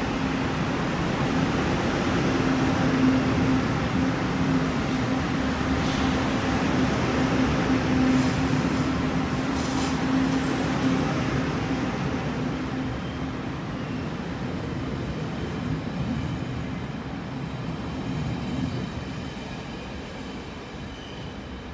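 Taiwan Railway train running along the platform with a steady rumble and hum, gradually fading over the second half as it pulls away.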